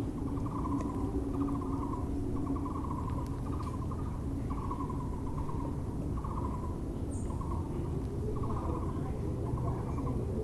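Taiwan barbet (Müller's barbet) calling in a string of short, rapidly pulsed phrases, about one a second, over a steady low hum and background noise. A brief high chirp from another bird comes about seven seconds in.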